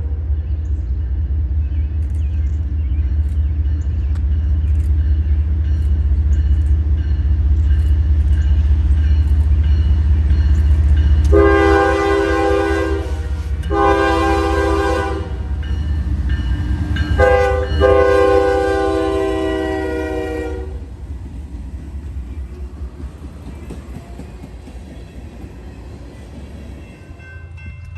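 Diesel freight locomotives rumbling past, then the locomotive horn sounding two long blasts, one short and a final long one: the standard signal for approaching a grade crossing. The rumble fades after the last blast.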